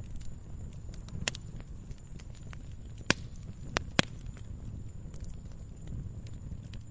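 Burning firewood crackling, with a few sharp pops (the loudest about three and four seconds in) over a low steady rumble of the flames.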